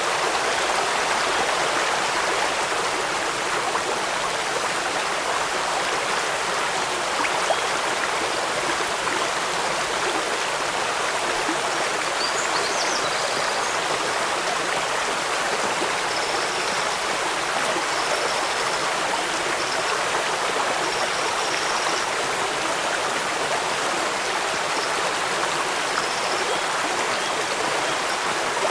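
Steady rushing of a stream or waterfall over rocks, even and unbroken throughout.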